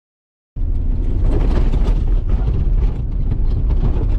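A vehicle's loud, steady rumble that starts suddenly about half a second in, with road or wind noise over it and no single crash or impact.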